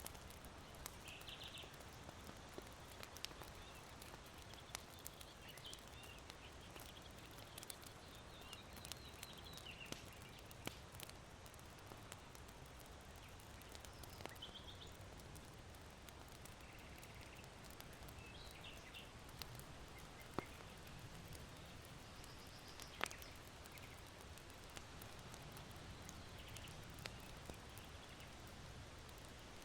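Charcoal in an irori hearth crackling softly, with scattered sharp pops, a few louder ones in the second half, over a steady faint hush of wind. Small birds chirp briefly in the distance every few seconds.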